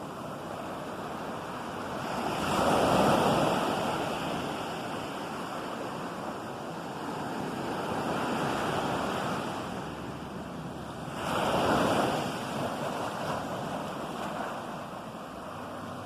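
Ocean surf: waves breaking on the shore, with two larger waves crashing about three seconds and twelve seconds in, and a steady wash of water between them.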